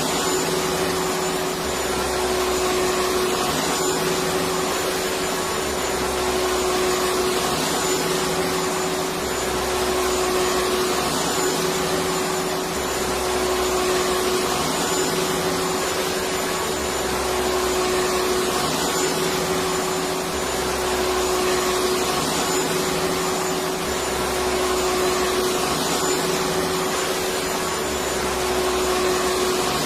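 Electric vacuum cleaner running steadily: a continuous rushing noise with a steady hum, its low rumble swelling and fading in an even cycle every three to four seconds.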